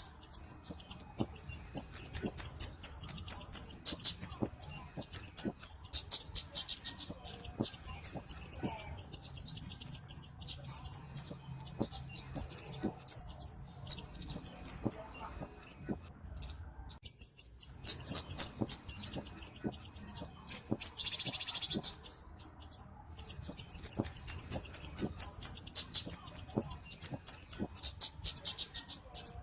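Cabe-cabean flowerpecker song: long bouts of rapid, very high-pitched chipping notes at about ten a second, with a few short pauses between bouts.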